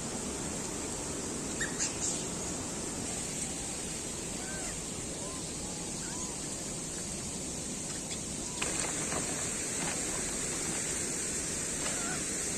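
Steady outdoor rushing noise, like wind on the microphone, with a steady high hiss. A few faint short chirps come over it, and brief crackles come about two seconds in and again from about eight and a half seconds.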